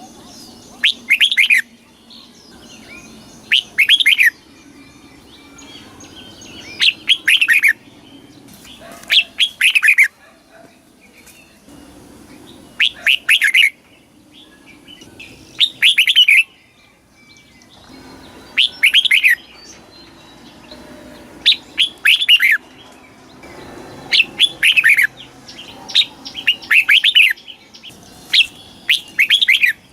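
Red-whiskered bulbul singing: short, loud phrases of quick, rising and falling whistled notes, repeated about every two to three seconds.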